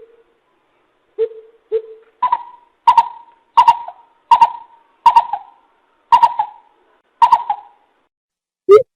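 Coucal calling: two low hoots, then a slow run of sharper, higher notes that come further and further apart.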